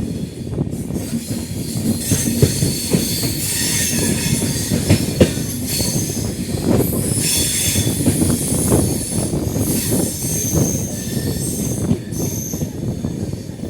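Shantiniketan Superfast Express running on the rails, with a steady rumble and knocking from the wheels and a high wheel squeal that comes and goes, loudest in the middle.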